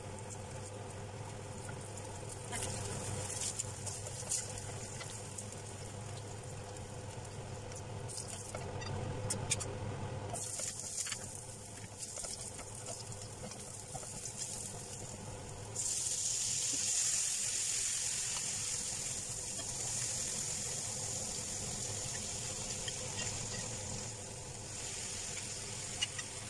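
Eggplant slices, then garlic and chillies, frying in a nonstick pan, with a few clicks of a spatula early on. There is a steady low hum under it, and about two-thirds of the way in a loud, steady sizzle starts and runs on.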